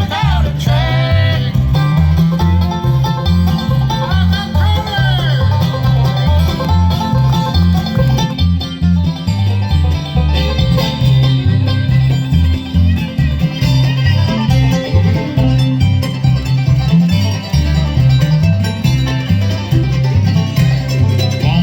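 Bluegrass band playing live, banjo to the fore with guitar, over a steady, pulsing bass rhythm.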